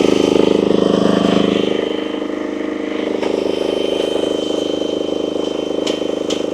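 UME10P mini excavator's engine running steadily, a little louder for the first two seconds before settling to an even note. Two light clicks near the end.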